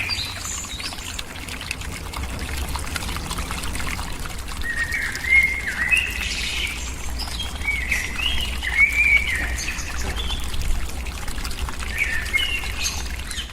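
Small birds calling in short phrases of quick chirping notes, several times, over a steady hiss like trickling water and a low hum.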